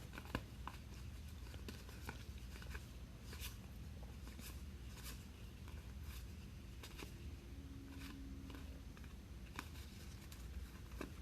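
Faint handling of Topps Archives baseball trading cards: scattered soft clicks and slides as the cards are flipped through one by one, over a low steady room hum.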